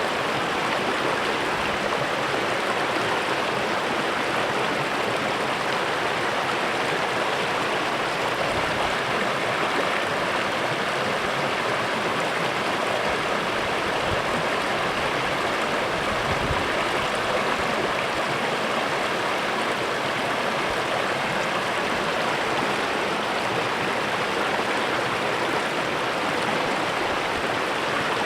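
Small stream running over stones: a steady babbling and rushing of water.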